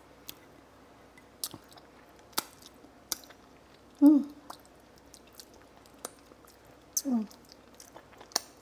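A person chewing and eating fried egg and tofu, with scattered small clicks from the mouth and utensils, and two short murmured hums of enjoyment about four and seven seconds in.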